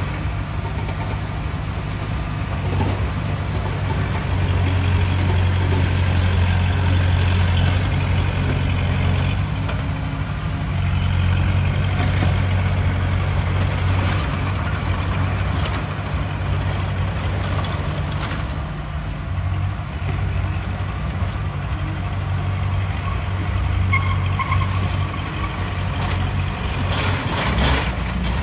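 Heavy diesel engine of earthmoving machinery running with a steady low drone, varying a little in strength, with a few sharp knocks and rattles.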